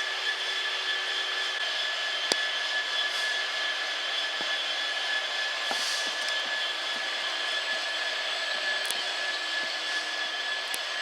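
Steady mechanical whine over an even rushing hiss, typical of a locomotive's fans or engine running near the lineside. There is a single sharp click about two seconds in.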